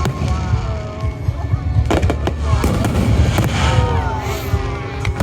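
Fireworks barrage: continuous low booming, with sharp cracks about two seconds in and again near the end.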